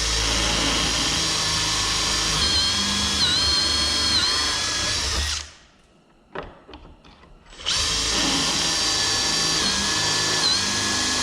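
Power drill running a pocket-hole bit through a pocket-hole jig into wood, in two long runs of about five seconds each with a short pause between. Its whine dips in pitch a few times as the bit loads up in the wood, and a few light clicks fall in the pause.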